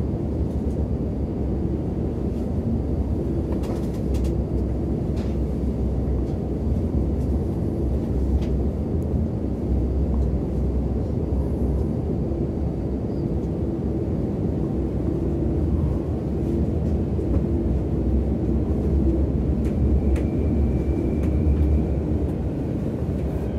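Steady low rumble of an Intercity train running on the rails, heard from inside the passenger carriage, with a few faint clicks about four to eight seconds in.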